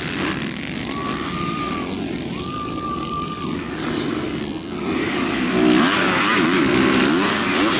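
Motocross bike engines revving and running at a race track, several engines overlapping with pitch sweeping up and down as they accelerate and back off, louder in the second half. A high steady whine is heard twice in the first half.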